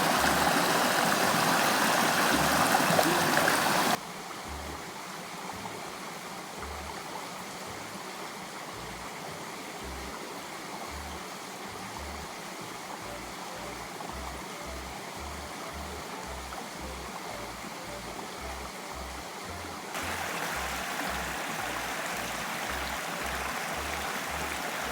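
Flowing river water, loud for the first few seconds, much quieter after a sudden drop, then louder again near the end, with soft background music whose low bass notes pulse steadily underneath.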